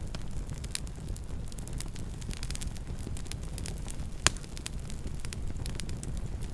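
Campfire burning with a steady low rumble and frequent small crackles, and one sharp, louder pop about four seconds in.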